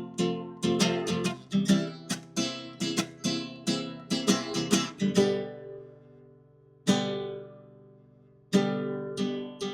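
Background music: acoustic guitar strumming in a steady rhythm, stopping about halfway to let a chord ring out, one more strum left to ring, then strumming picks up again near the end.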